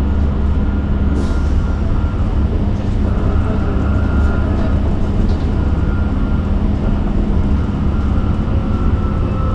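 Cabin noise of a moving electric bus: a steady low rumble from the road and running gear, with a faint high whine drifting in pitch. A short hiss comes about a second in.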